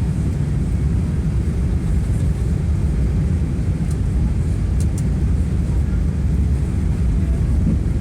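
Steady low rumble of an Airbus A380 heard from inside the cabin in flight, with a couple of faint clicks about halfway through.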